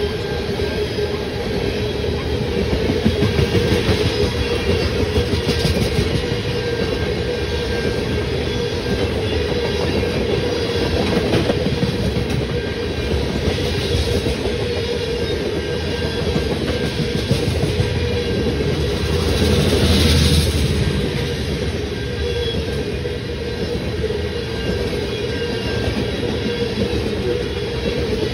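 Tank cars of a unit freight train rolling past close by: a continuous rumble of steel wheels on rail, with clatter as wheels cross rail joints. It swells louder about two-thirds of the way through.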